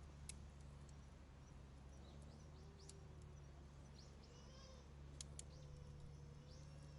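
Faint birdsong of short chirps and a brief high trill, with a few sharp clicks, over a steady low hum.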